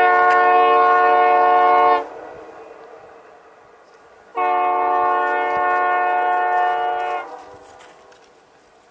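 Locomotive air horn sounding two long blasts, a chord of several steady notes, the second blast a little longer than the first. Two long blasts is the standard railroad signal that the train is releasing brakes and about to proceed.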